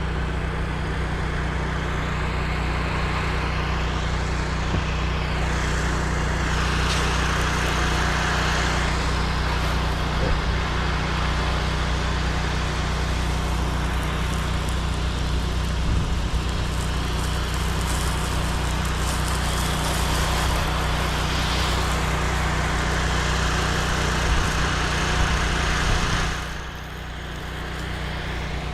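Pressure washer's engine running steadily under the hiss of the spray as the hangar roof is wetted down. The spray cuts out near the end while the engine keeps running.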